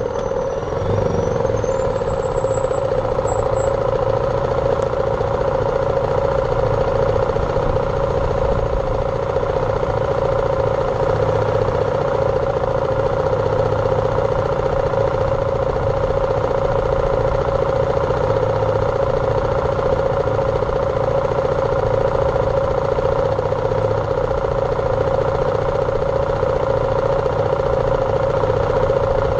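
BMW G310R's single-cylinder engine running at steady, unchanging revs.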